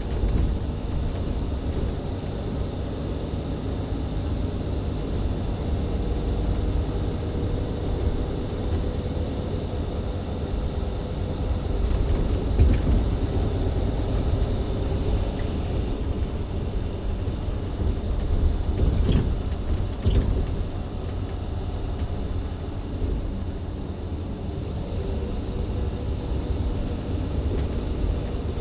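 Mercedes-Benz Citaro C2 LE MÜ Hybrid city bus driving, heard from inside the cabin: the diesel engine and Voith automatic gearbox run steadily with road rumble and a held tone. A few rattles and knocks come about halfway through and again about two-thirds of the way in.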